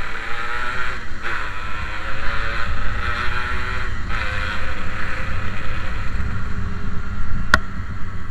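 Yamaha RX King's 135 cc two-stroke single-cylinder engine pulling under way, its pitch rising, dropping at a gear change about a second in, rising again and dipping again near the four-second mark before holding steady, with wind rushing over the microphone. A single sharp click comes near the end.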